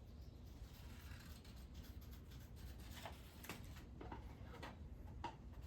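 Scissors snipping through paper or cardboard, about five faint, separate cuts in the second half, low room hum under them.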